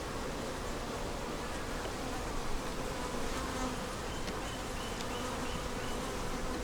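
Honey bees buzzing steadily in and around an open Langstroth hive.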